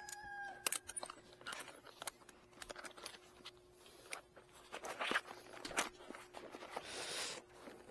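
A rooster's crow trails off about half a second in. It is followed by scattered clicks and knocks with a brief rustle near the end, over a faint steady hum.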